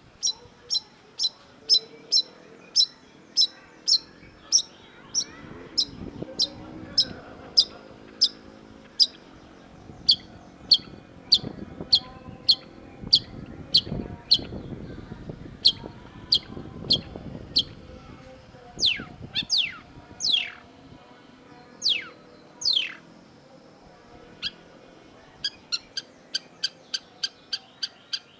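Long-tailed shrike singing: a long run of short, sharp, evenly spaced notes about two a second, then a few falling slurred notes, and after a short pause a quicker run of notes near the end. A faint low murmur runs underneath in the middle.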